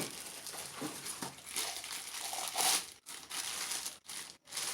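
Packaging being handled and crinkling in irregular rustles, with a sharp knock right at the start and brief cut-outs to silence near the end.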